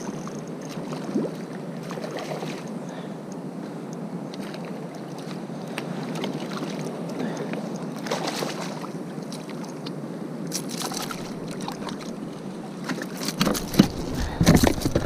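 Steady wash of water and wind around a sea kayak, with a few sharp knocks against the boat near the end.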